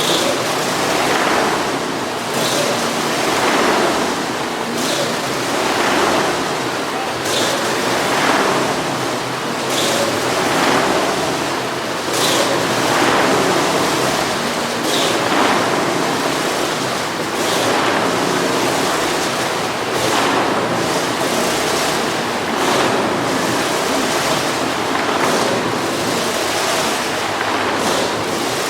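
Engine of a vehicle circling the inside of a Wall of Death drum, its noise swelling into a whoosh each time it sweeps past, about once every two and a half seconds.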